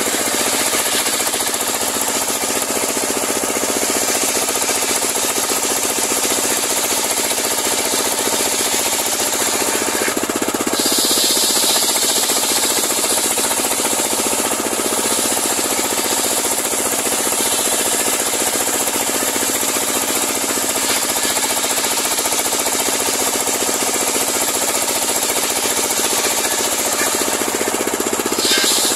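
Homemade circular-saw sawmill running steadily, its engine-driven blade sawing a large pule log. The sound shifts slightly about ten seconds in and again near the end.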